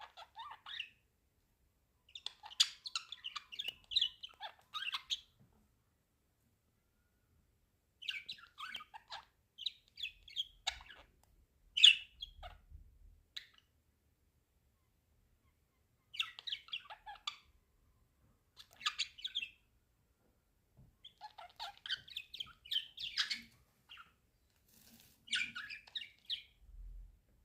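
Pet budgerigars chattering and chirping in bouts of a few seconds, broken by short silent pauses, with a loud sharp chirp about twelve seconds in.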